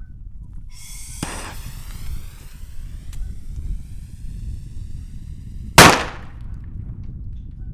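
A whistling rocket flies off with a whistle that lasts about five seconds, then bursts with one loud bang near the end. Wind rumbles on the microphone throughout.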